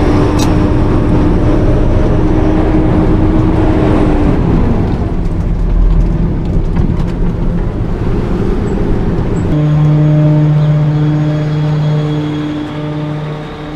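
Garbage truck's engine running, with a steady low hum that becomes more even about nine and a half seconds in.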